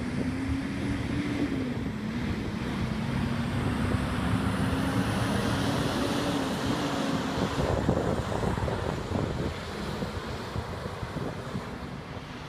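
Gusty wind buffeting the microphone with a heavy low rumble. A faint wavering hum runs through the first half and fades out a little after six seconds.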